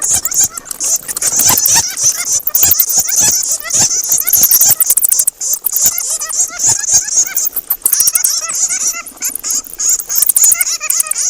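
Many bats squeaking and chittering at once: a dense, unbroken stream of short high-pitched chirps with scattered sharp clicks.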